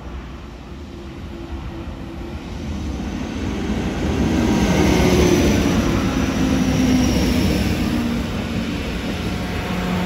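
DB class 620 (Alstom Coradia LINT 81) diesel multiple unit running in past the platform. Its engine and wheel noise build from about two seconds in and are loudest from about four seconds. A high whine falls slightly in pitch as it passes.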